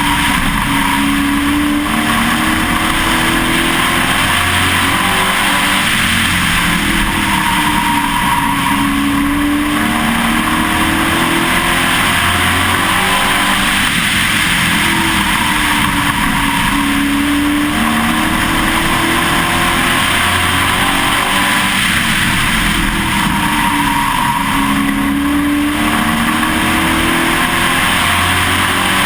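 Pro Truck stock-car racing engine at full racing speed, heard from inside the truck, its pitch climbing and falling again in a repeating cycle about every eight seconds as it laps the oval, over a steady roar of wind and road noise.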